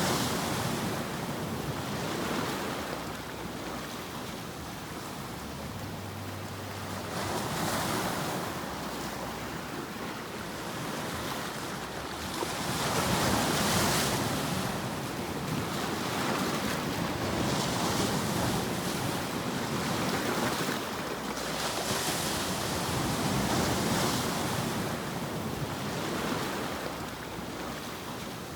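White-noise sleep track: an even rushing hiss that swells and ebbs every few seconds, much like surf.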